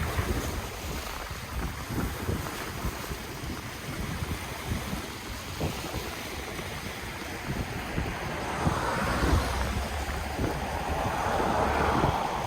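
Ocean waves washing in, with wind buffeting the microphone in low rumbling gusts; a wave surges and breaks louder over the last few seconds.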